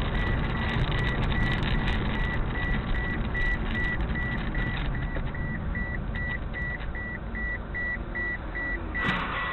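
Car cabin road and engine noise while driving, with an electronic warning beeper sounding a high steady tone in quick repeated beeps, about three a second. A brief rush of noise comes near the end.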